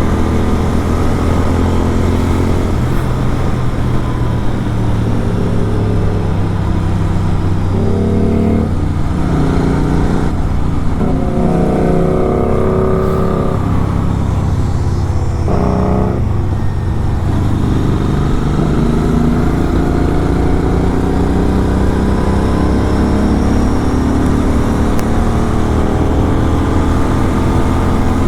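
Superbike engine breathing through a full-system aftermarket exhaust, running steadily under way, its note rising and falling with the throttle through the middle.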